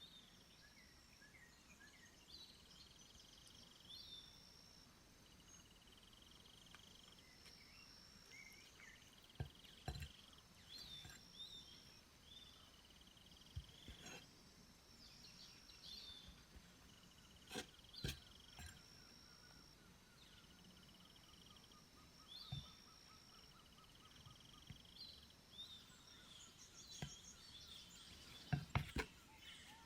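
Faint birdsong in a forest: short, repeated whistled notes, some with quick trills. A few soft knocks and clicks break in now and then, most of them bunched near the end.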